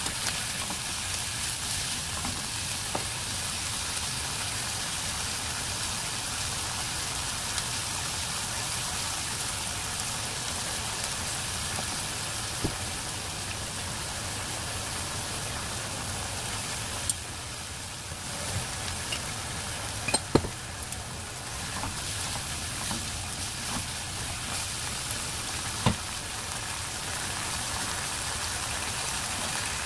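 Beef, onion and green onion sizzling as they stir-fry in a frying pan, a steady hiss. A few light clicks and taps come through it, the loudest about two-thirds of the way in.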